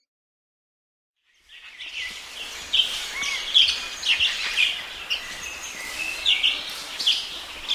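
Lovebirds (Agapornis) chattering as a group: many short, high chirps overlapping densely over a background hiss. The calls fade in after about a second and a half of silence.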